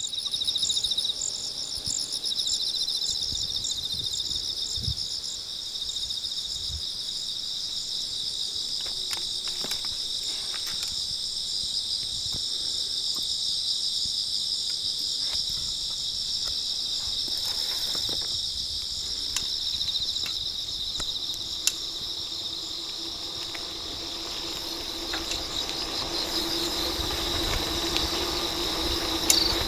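A chorus of crickets chirping steadily, several overlapping high-pitched pulsing trills. A low steady hum joins in about two-thirds of the way through, with a couple of sharp clicks.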